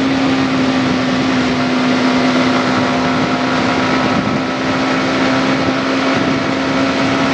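Yamaha MT-15's single-cylinder engine running at a steady cruising speed, with heavy wind and road noise from riding at speed.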